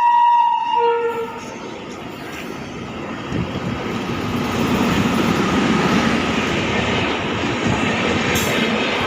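Indian Railways WAP-7 electric locomotive's horn holding one steady high note that cuts off about a second in, followed by the rumble and wheel noise of the train passing, building up from about three seconds in.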